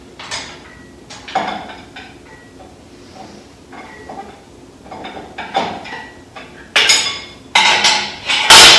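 Metal clinking and clanking at irregular intervals as an engine is lowered on a hoist to rest on the floor: light clinks at first, then several loud clanks near the end.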